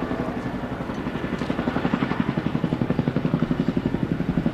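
CH-47J Chinook tandem-rotor helicopter's rotors beating in a fast, even chop as it flies past.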